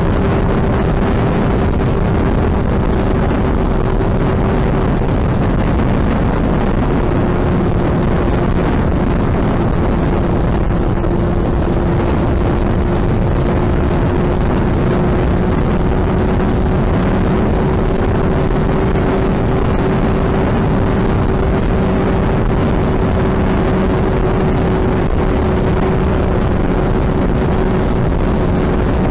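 Suzuki Hayabusa inline-four engine holding a steady speed under heavy wind noise on the microphone; the engine note stays at nearly one pitch.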